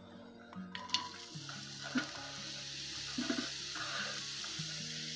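Chopped onions tipped into hot oil in a frying pan, sizzling steadily from about a second in.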